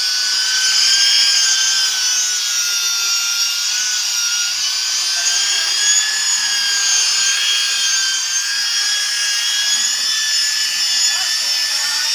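Electric power sander running steadily on a synthetic solid-surface table top: a high-pitched motor whine that wavers slightly in pitch, with a gritty rubbing hiss above it.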